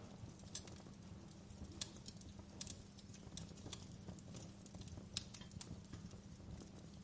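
Wood fire crackling steadily, with irregular sharp pops and snaps over a low rumble of flame.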